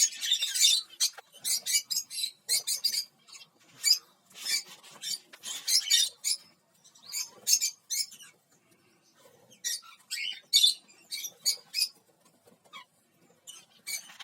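Small parrots in an aviary of lovebirds and cockatiels calling: many short, shrill chirps and screeches in quick clusters.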